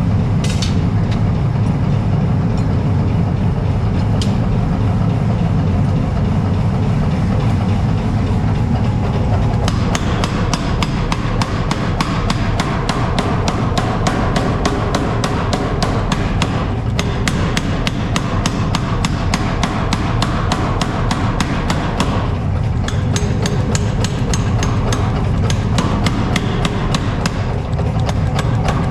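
Rapid, regular hammer blows on steel, about four a second, starting about ten seconds in, over a steady low rumble.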